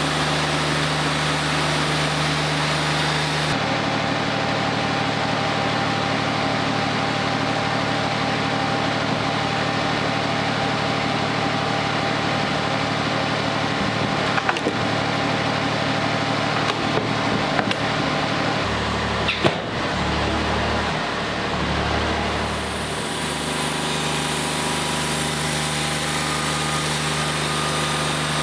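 Wood-Mizer LT40 Wide portable bandsaw mill running steadily while a black walnut log is sawn down to a cant. Its pitch and tone shift a few seconds in and again about two-thirds of the way through, with a few sharp knocks.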